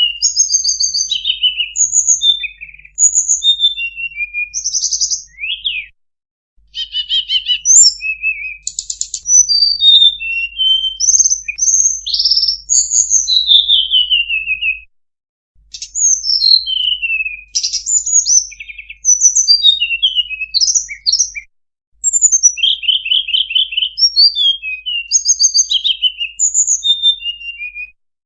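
Recorded song of a tledekan (a blue flycatcher), played as a lure to call in wild birds: quick, varied high whistles, slurred notes and short trills in long runs, broken by a few brief silent gaps.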